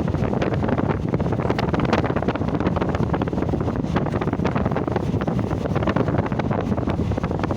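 Moving train: steady rushing wind on the microphone, with irregular rattling and clicking from the carriage.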